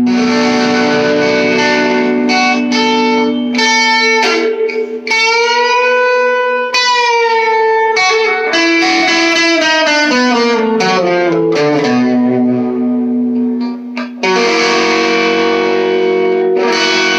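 Electric guitar through an all-tube amp with the volume eased off and the tone knob rolled down to about 2, giving jazzy clean chords with a little grit and dirt. Chords ring out, a note bends up and back down about five seconds in, a run of notes steps downward, and a new chord is struck about fourteen seconds in.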